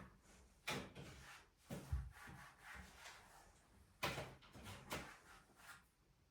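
Tidying sounds: several short knocks and scraping rubs of things being handled and set down, a second or so apart, with no vacuum cleaner running.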